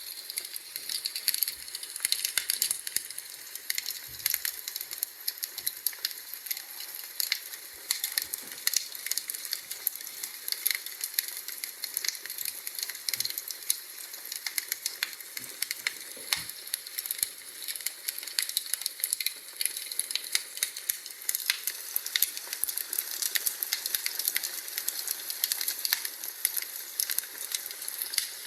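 Wood fire crackling in a homemade fireplace: a steady run of dense, irregular crackles and pops, with a few soft low thumps.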